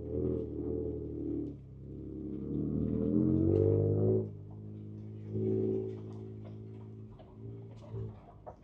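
Ford Ranger Raptor's twin-turbo V6 heard from inside the cab, crawling on a trail with uneven throttle: the revs climb for a couple of seconds, fall away sharply about four seconds in, then come in short surges. Light ticks and knocks sound over the engine.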